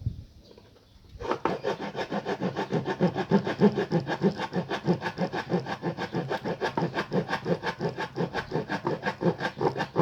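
Small manual hand saw sawing with quick, even back-and-forth strokes, about four or five a second, starting about a second in.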